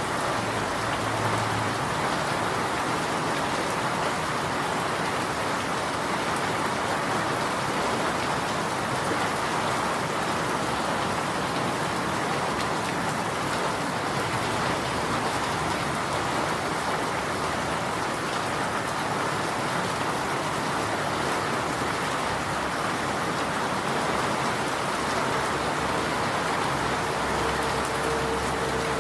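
Steady rain falling and pattering on surfaces, an even hiss with no letup. A faint steady tone comes in near the end.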